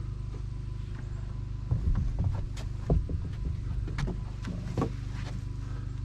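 A steady low mechanical hum, like a small engine running, with a few scattered knocks and clatters in the first half and middle.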